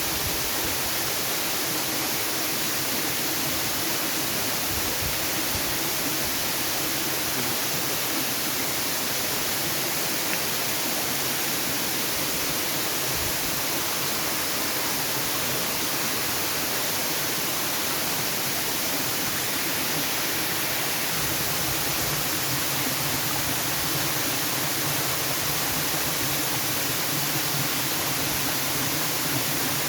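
Waterfall: a steady, even rush of falling water with a hissy, bright character and no breaks.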